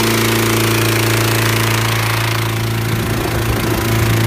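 Small gasoline engine of a hot air balloon inflator fan running at a steady speed, with the rush of air from the fan.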